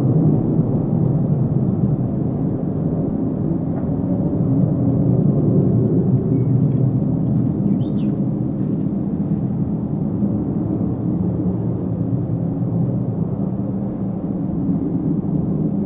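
Tu-134AK jet airliner's rear-mounted Soloviev D-30 turbofans, a steady low rumble after takeoff that eases slightly as the aircraft climbs away.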